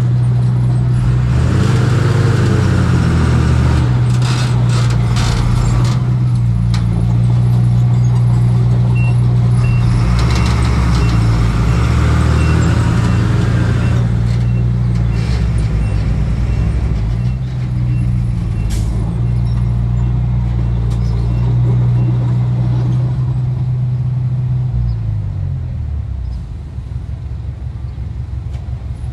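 Diesel engine of heavy earthmoving equipment running steadily, rising in pitch briefly a few times, then dropping lower and quieter near the end. A faint high beeping repeats through the middle.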